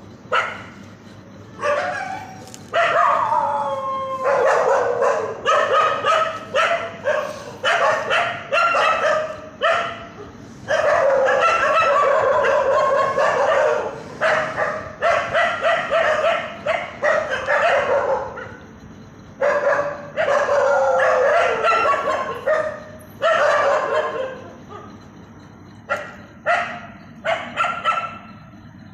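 Dogs barking and yelping in bouts with short pauses between, some bouts running into longer drawn-out cries.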